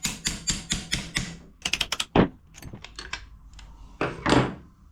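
A screwdriver being struck against a two-stroke piston's gudgeon pin to drive it out, about four sharp metallic taps a second. The taps stop a little over a second in, followed by a few scattered clicks and two louder scraping noises.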